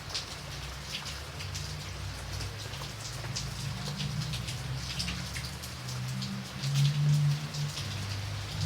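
Steady rain with individual drops pattering on a surface, over a low rumble that swells about seven seconds in.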